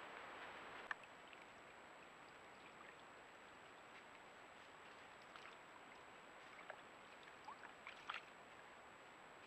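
Near silence: faint steady hiss with a thin high whine, a soft tick about a second in, and a few faint short chirps in the second half.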